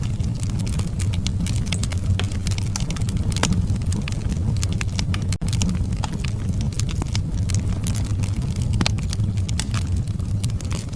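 Wood fire burning in a fireplace: a steady low rumble of flames with frequent sharp crackles and pops, and a brief dropout about five seconds in.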